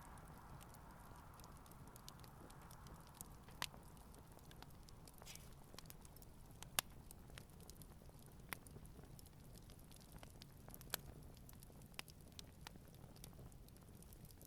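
Campfire burning quietly, the wood giving off a handful of sharp pops and small crackles spread through the stretch.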